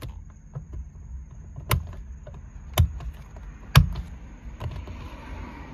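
Three sharp knocks about a second apart, the last the loudest, as the airbag module is pressed to snap it into the steering wheel.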